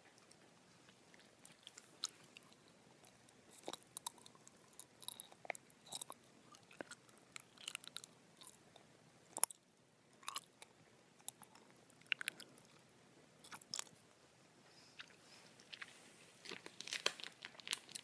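Gummy bears being chewed right at the microphone: irregular wet mouth clicks, smacks and squishes, coming thicker near the end.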